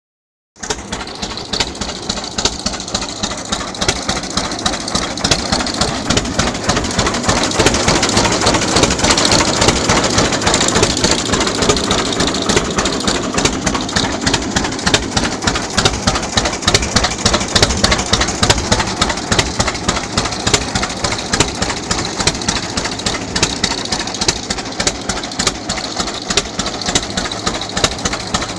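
1929 John Deere Model D tractor's two-cylinder engine running, with a steady, rapid, even popping beat.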